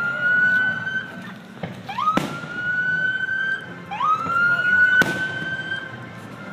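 A siren whooping over and over: each whoop is a quick rising sweep that levels into a long held tone, repeating about every two seconds. Two sharp bangs cut in, one about two seconds in and one about five seconds in.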